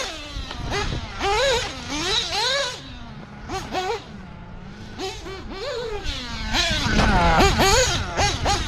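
OS Speed 21 XZ-B two-stroke nitro engine in a Mugen MBX8R 1/8-scale buggy, revving up and down sharply as the buggy is driven, its whine rising and falling about once a second. It drops back to a lower, quieter note around three to five seconds in, then revs hard again near the end.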